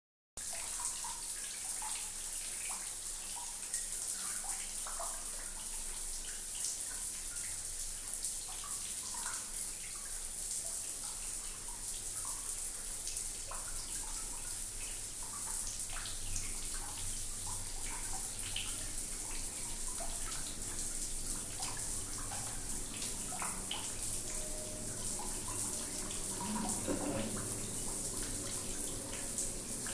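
Water running steadily from a tap during a pet parrot's bath, with small scattered splashes and patters through it.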